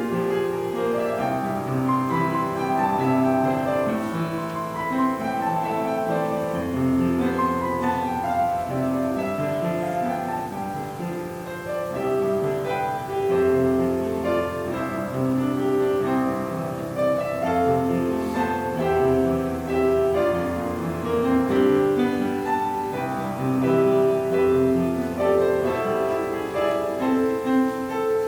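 Slow instrumental classical-style music led by piano: a flowing melody over long held low notes that change every second or two.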